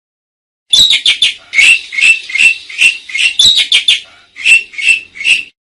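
Asian pied starling (jalak suren) song: a quick run of about a dozen loud, scratchy notes starting about a second in, with a short break near the end.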